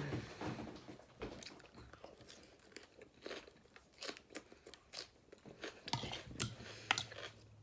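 A person chewing a mouthful of raw lettuce salad close to the microphone: irregular, crisp crunches of fresh leafy greens being bitten and chewed.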